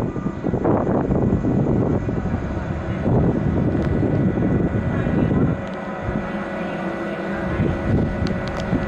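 Train running at the platform: a heavy low rumble with steady high whine tones. About halfway through the rumble eases to a quieter hum.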